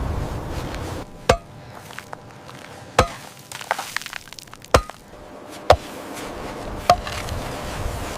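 Sharp chopping blows, five loud strikes spaced about a second or so apart with a few lighter knocks between them. A rushing, wind-like noise fills the start and returns near the end.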